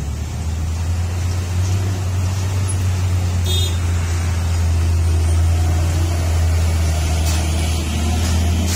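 Heavily loaded diesel truck's engine labouring on a steep climb, a loud steady low drone, with one brief high-pitched sound about three and a half seconds in.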